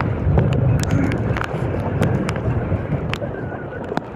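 Strong wind buffeting the microphone in a loud, constant rumble, with scattered sharp splashes and drips of water from waves and the kayak paddle.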